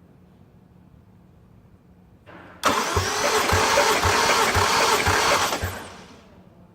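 Toyota 1JZ-GTE twin-turbo inline-six being turned over by its starter for about three seconds, with a low pulse about twice a second, then dying away.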